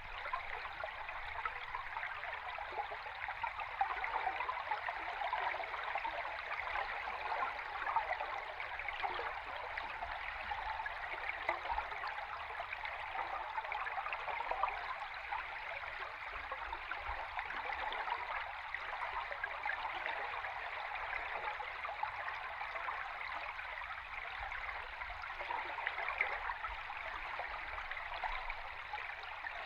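Flowing stream water heard from under the water: a steady, dense bubbling and fizzing with a faint low rumble beneath.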